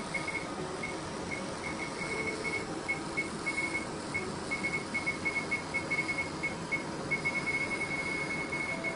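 Fraxel Repair CO2 laser beeping as it fires: short high beeps at one pitch, several a second in irregular runs, running together into a near-continuous tone near the end. A steady machine hiss sounds under it.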